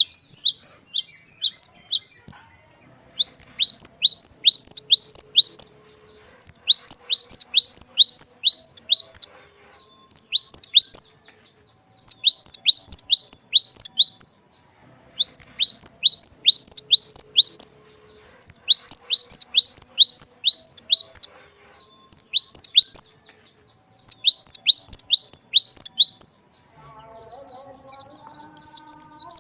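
Cinereous tit (glatik batu) singing: bursts of rapid, clear, high down-sweeping chirps at about five or six notes a second. Each burst lasts two to three seconds, with a short pause before the next.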